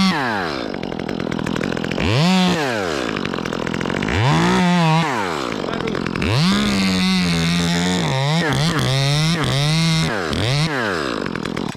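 Two-stroke chainsaw revving up and dropping back to idle several times, then held at high revs for a few seconds with the pitch dipping and recovering. It stops abruptly near the end.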